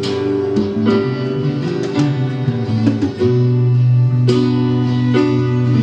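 Live band playing an instrumental stretch between sung lines: strummed guitar chords over sustained low notes.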